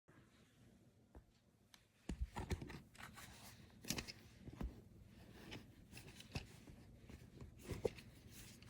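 Faint handling noises from a small plastic handheld fan being held and turned over with its motor off: scattered light clicks and rustles, busier from about two seconds in.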